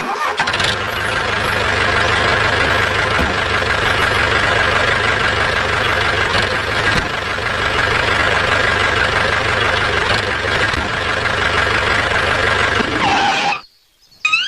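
Engine running steadily, with a faint high whine over a low rumble, cutting off abruptly about thirteen seconds in.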